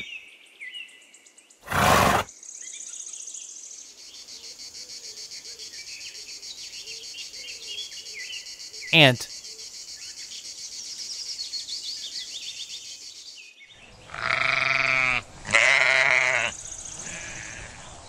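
A long stretch of quiet, high-pitched chirring with fine rhythmic ticking, then sheep bleating: two loud, drawn-out bleats near the end. A brief loud burst comes about two seconds in.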